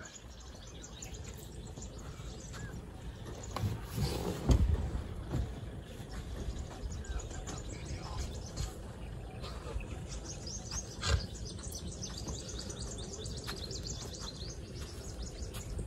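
Birds chirping in short, repeated high calls over a steady low rumble, with a couple of dull knocks, one about four seconds in and one about eleven seconds in.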